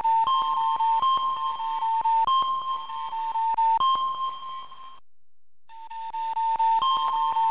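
Electronic alert tones from a live seismic monitor, triggered by an earthquake: a steady beep near 1 kHz switching between two close pitches about every second and a half, over rapid regular clicking. It cuts out briefly about five seconds in, then starts again.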